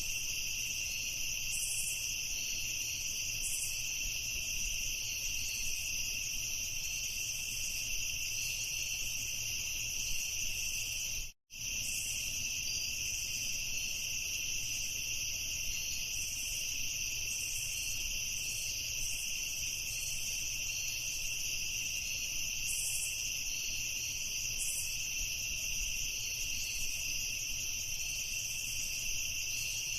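A chorus of crickets chirping steadily, with no break except one sudden drop to silence for a fraction of a second about eleven seconds in.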